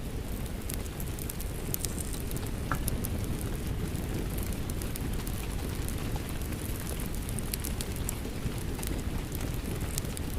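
Rain falling steadily together with a crackling wood fire in a fireplace: an even, low wash of rain under frequent sharp crackles and pops.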